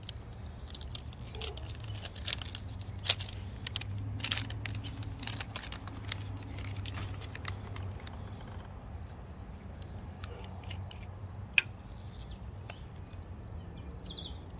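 Handling of plastic MRE packaging: irregular crinkling and small clicks, with two sharper clicks about three seconds in and near the end, over a low steady hum.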